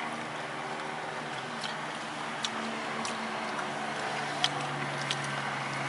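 Eating up close: chewing with a few sharp wet clicks, over the steady low hum of a car's engine running.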